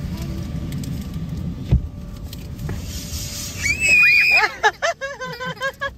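Steady low rumble of an automatic car wash working over the car, heard from inside the cabin, with a single thump about two seconds in. About three and a half seconds in, a child lets out a loud high squeal, then keeps up quick excited voice sounds.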